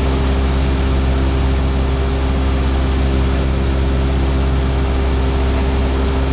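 Cessna 172R's four-cylinder Lycoming engine and propeller droning steadily in flight, an even, unchanging cabin noise.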